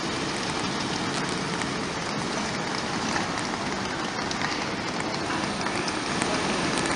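InterCity passenger coaches rolling past along the platform: a steady, even hiss of wheels on rails.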